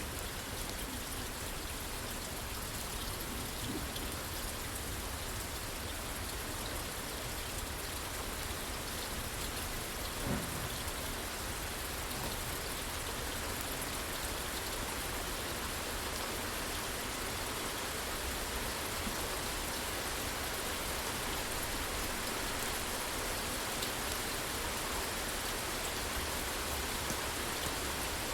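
Steady rain falling on a porch roof, an even hiss of drops, with one brief low thump about ten seconds in.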